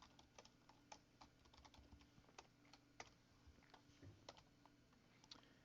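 Faint typing on a computer keyboard: irregular, quick keystrokes.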